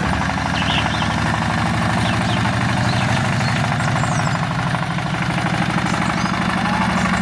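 Small engine of a home-built mini tractor running steadily at an even speed.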